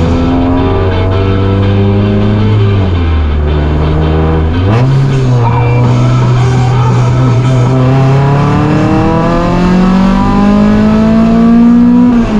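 Honda Civic race car's four-cylinder engine running under way through the gears. The revs drop about three seconds in and pick back up, then climb steadily over the last few seconds.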